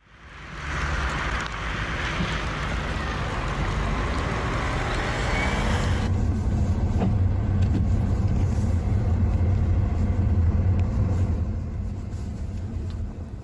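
Steady vehicle noise: a hiss for about the first six seconds, then, after an abrupt change, a steady low engine hum.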